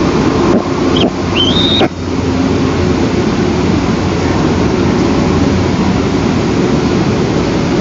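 Loud, steady rushing noise of wind on an outdoor nest camera's microphone. About a second in, a short high bird call rises in pitch and stops.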